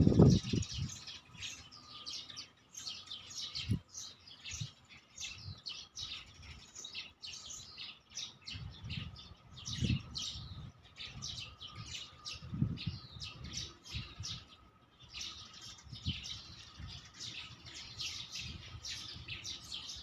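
Many small birds chirping and twittering together in a dense, continuous chorus of short high calls. A faint steady tone runs underneath, and a few low muffled bumps break in, the loudest right at the start.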